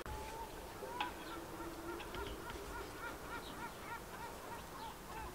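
A bird calling in a quick series of short, repeated chirps, about four a second, with a light click about a second in.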